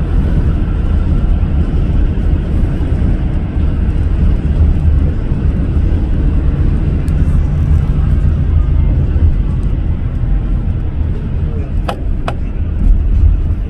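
A car travelling at road speed makes a steady, loud, low rumble of road and engine noise. Two short clicks come close together about twelve seconds in.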